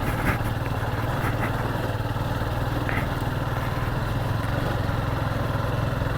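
Motorcycle engine running at a steady, even pace.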